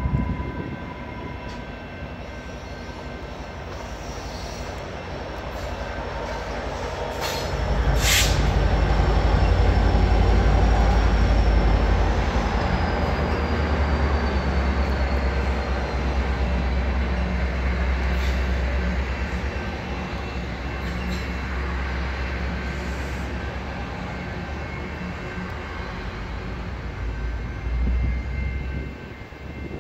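Exo commuter train passing on the Candiac line: the locomotive's low engine rumble comes in loud about eight seconds in, then the coaches roll by on the rails with fainter rumble. Thin, high wheel-squeal tones ride over it, with a sharp click about eight seconds in.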